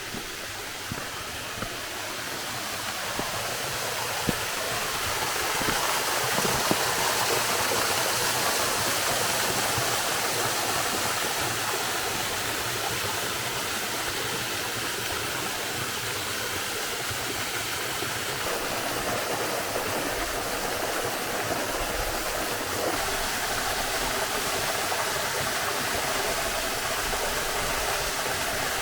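Waterfall: a steady rush of falling water that grows louder over the first several seconds, then holds steady.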